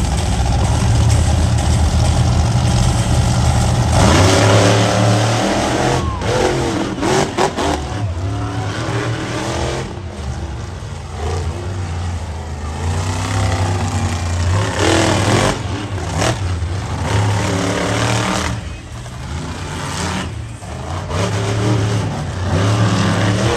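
Monster truck engine running loud at idle and revving up and down several times, the pitch rising and falling with each blip.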